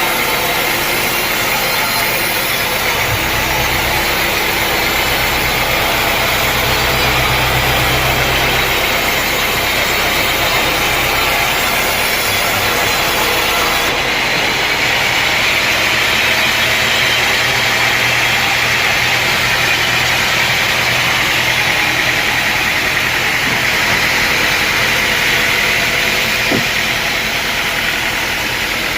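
Sawmill machinery running steadily: an engine hum under the dense noise of a saw working timber. The low hum changes pitch about halfway through.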